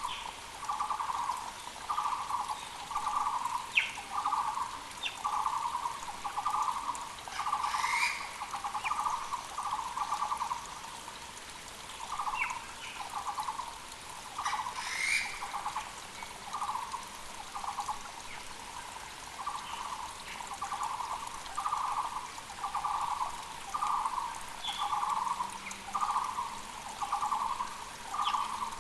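Taiwan barbet (Müller's barbet) calling a long, steady string of repeated notes, about one and a half a second, pausing briefly now and then, over the even rush of a mountain creek. Other birds add a few short, higher calls.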